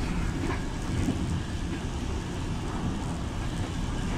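Steady low rumble of a train running at speed along the track, mixed with wind noise.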